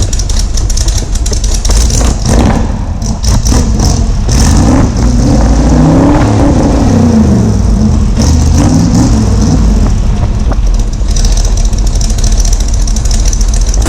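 Ford 351 Windsor V8 with a mild cam and side pipes, revved from idle: a long rev that climbs and falls back from about four to eight seconds in, a shorter one around nine seconds, and steady lumpy running either side.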